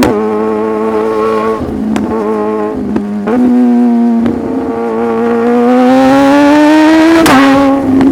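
Sport motorcycle engine pulling hard through the gears. Its pitch climbs under acceleration and drops with a short click at each quick upshift; the longest pull rises steadily before a shift near the end.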